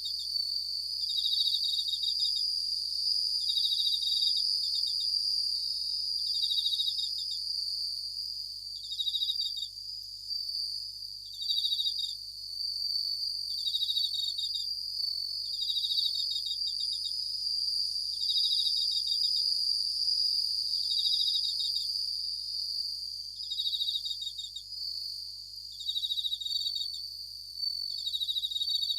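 Japanese bell crickets (suzumushi) singing: a short, pulsed, ringing chirp repeats about every two and a half seconds over a steady high-pitched insect trill.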